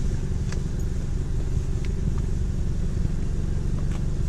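Volkswagen Golf 7 R's turbocharged 2.0-litre four-cylinder, stage-2 tuned with its catalyst removed, idling steadily with a low rumble. A few faint clicks are heard over it.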